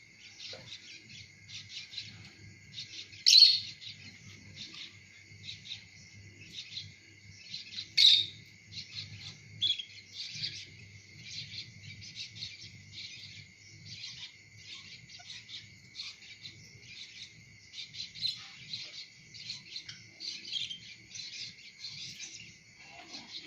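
Lovebirds chirping and chattering steadily, with a few louder sharp calls, the first about three seconds in and another about eight seconds in.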